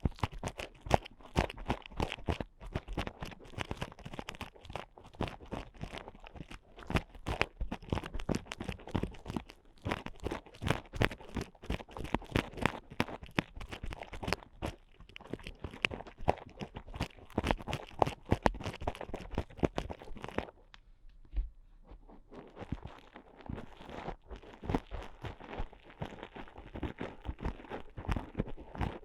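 Ear picks scraping and scratching inside the ear of an ear-shaped ASMR microphone: a dense run of close, crackling scrapes that pauses briefly about twenty seconds in, then resumes.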